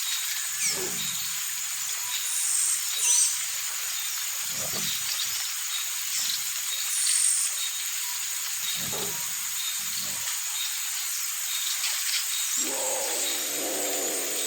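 Jaguar giving a few short, low grunting calls a few seconds apart, then a longer, sustained growl starting near the end, over a steady background hiss with high chirps.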